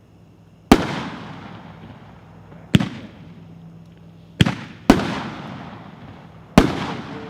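3-inch aerial shells fired from a 9-shot rack, going off one after another: five sharp reports about one to two seconds apart, two of them close together near the middle, each fading off in a long decaying tail.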